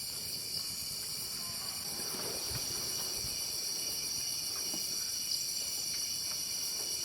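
Steady, high-pitched chorus of crickets or other insects, with a few faint knocks.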